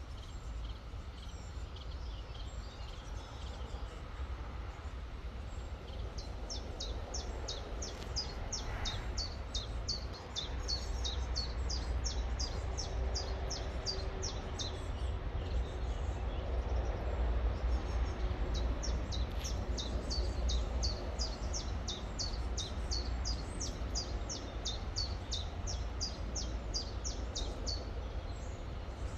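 A songbird repeating a high, short downward chirp about three times a second in two long runs, over the steady rush of a river.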